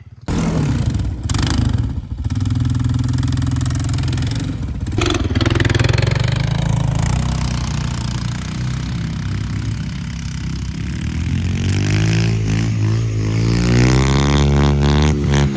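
Small quad (ATV) engine running, then revving up so its pitch climbs over the last few seconds.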